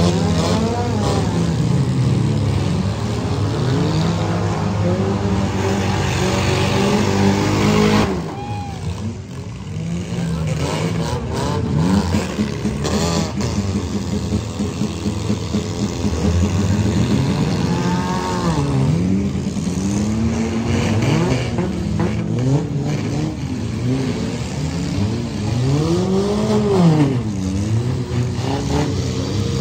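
Many compact demolition derby cars' engines revving at once, their pitches rising and falling as they accelerate and back off, with a few short knocks of cars hitting each other.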